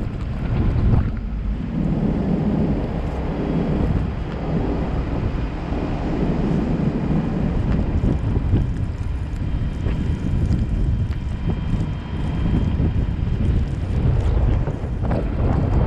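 Wind buffeting the microphone over a steady low rumble of a vehicle driving in a snowstorm.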